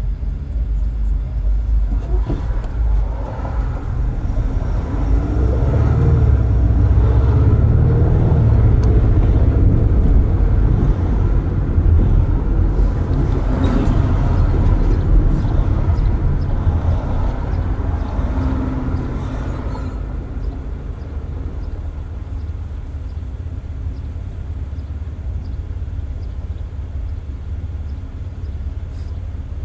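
Road and tyre rumble of a car driving with its windows open, with traffic noise. It grows louder from a few seconds in to about two-thirds of the way through, then settles back to a steady rumble.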